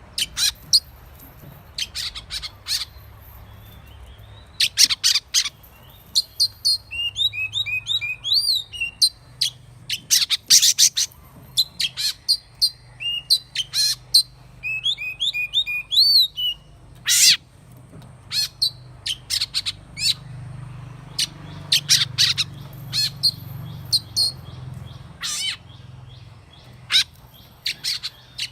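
Oriental magpie-robin singing, its wild forest song: many short, sharp notes with two runs of quick, arched whistled notes, one about a third of the way in and one around the middle.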